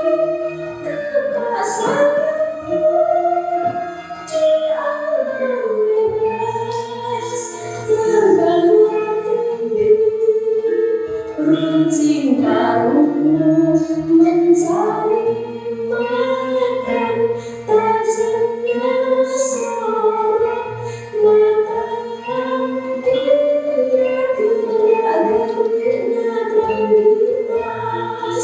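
Javanese gamelan music with a sung tembang: voices holding a long melody that bends up and down, over the ensemble, with sharp metallic strikes through it.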